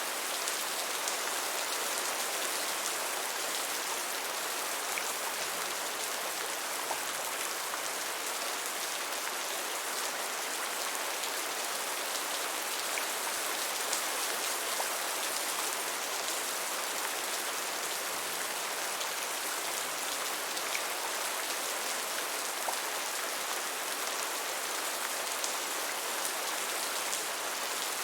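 Steady, gentle rain falling on a surface: an even hiss with scattered faint drop ticks.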